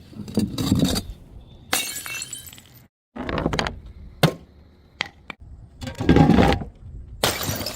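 Glass bottles smashing one after another, about five separate breaks, each a loud crash followed by a brief bright clatter of glass.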